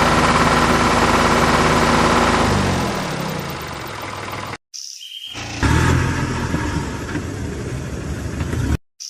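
A vehicle engine runs hard and steady, then its pitch slides down as it slows over about two seconds. After an abrupt cut comes a rougher stretch of engine noise that cuts off again near the end.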